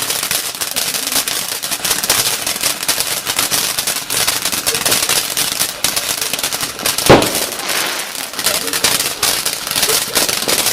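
Firework fountain, like a giant sparkler, spraying with a continuous hiss and dense rapid crackling, and one louder bang about seven seconds in.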